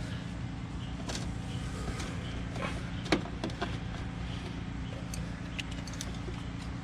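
Scattered light clicks and knocks of hand work on a truck's engine parts, one sharper knock a little after three seconds in, over a steady low hum.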